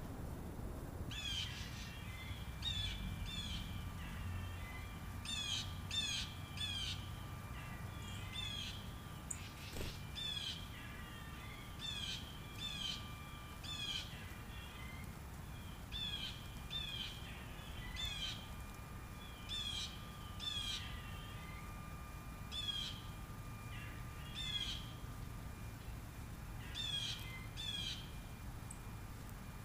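A bird giving harsh, repeated calls in quick runs of two or three, over a low steady rumble.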